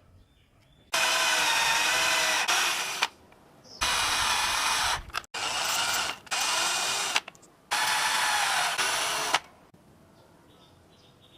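An electric power tool's motor running in four bursts of about one to two seconds each, with a steady whine and short pauses between them.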